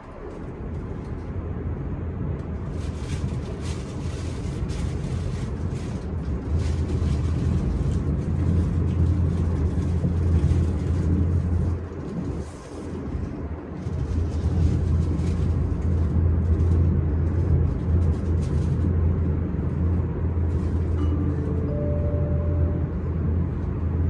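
S-Bahn electric commuter train running, with a steady low rumble and bursts of rattling from wheels and track. A faint steady whine comes in near the end.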